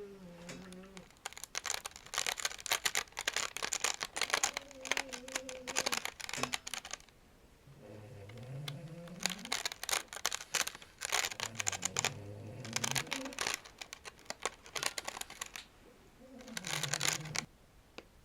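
Fingers scratching and brushing a toy plate: dense, fast runs of scratchy clicks in bursts with short pauses. At times there are low squeaky rubbing tones.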